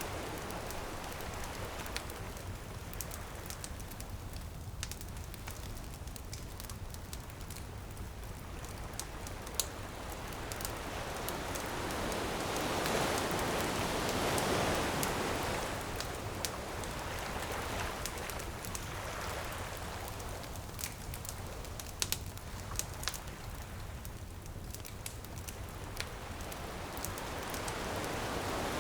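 Bonfire crackling with many small sharp pops over ocean surf washing in and out; the wash swells about halfway through and again near the end.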